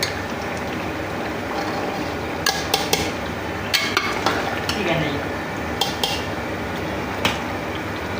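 A metal spoon stirring in a cooking pot, knocking against its side in a handful of sharp clinks over a steady hiss.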